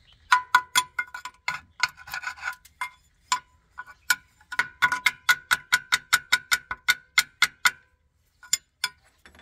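Light metal-on-metal taps on a mini loader's water pump, knocking off an old gasket that has gone hard; each tap rings briefly. The taps come in runs of about three to four a second, with a short pause near the end.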